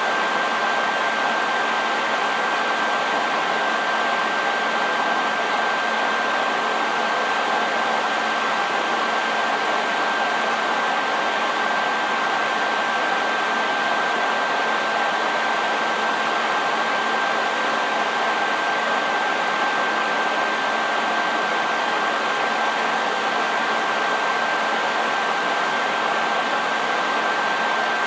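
Hair dryer running steadily: an even rush of blown air with a constant high whine from the motor over it.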